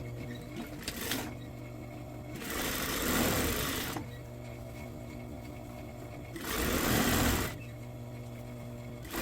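Sewing machine stitching in two bursts of a second or so, with a short run near the start, over a steady hum between runs.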